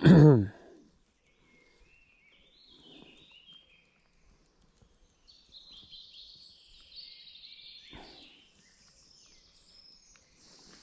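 Small birds singing faintly in the background in short warbling phrases, with a single click about eight seconds in.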